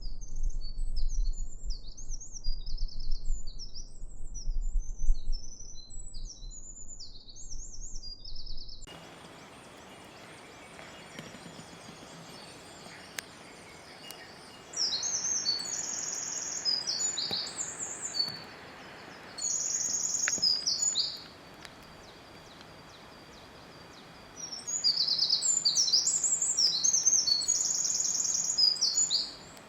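Songbirds singing: rapid, high chirping notes over a low rumble. After an abrupt change to a steady hiss, three separate bursts of high, fast bird song follow, each a couple of seconds long.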